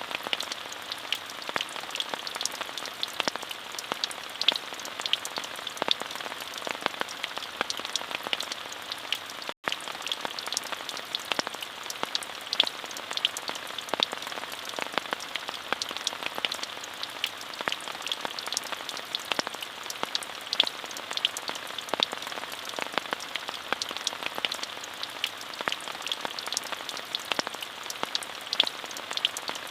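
Steady rain falling, a dense even hiss with many distinct drops ticking close by. The sound cuts out for an instant a little under ten seconds in.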